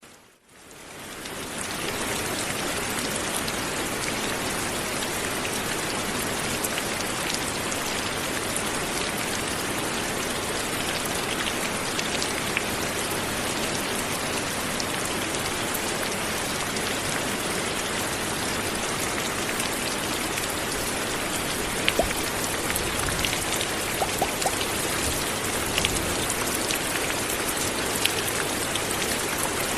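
Light, steady rain falling, an even hiss of drops with scattered sharper drips landing close by. It fades in over the first second or two, and a few louder drips land near the end.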